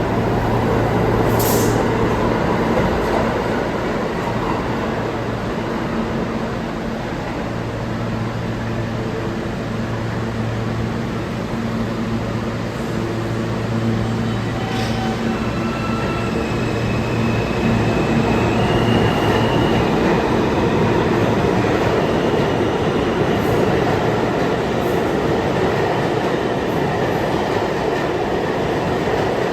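New York City subway train running through the station: a steady rumble of wheels on rail with a low hum, and a few faint high squeals from the wheels about halfway through.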